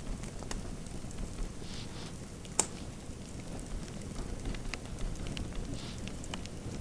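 Fireplace fire crackling: a steady low rumble of flame with scattered small pops and one sharper, louder pop about two and a half seconds in.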